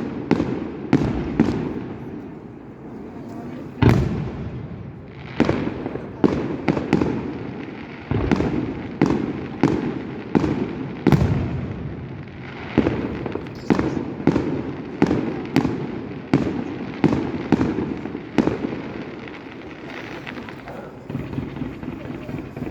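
Aerial fireworks display: a rapid, irregular run of sharp bangs, about one or two a second, each echoing briefly.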